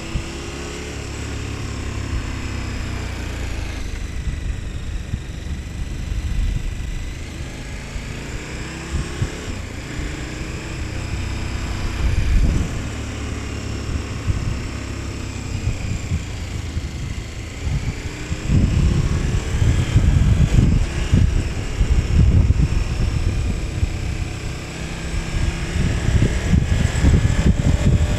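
KTM 1290 Super Adventure S's V-twin engine under way, its revs rising and falling again and again as the bike accelerates and shifts. A heavy low buffeting rumble takes over from about two-thirds of the way through.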